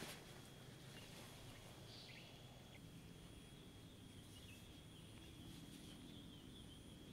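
Near silence: faint outdoor ambience with a few brief, soft bird chirps.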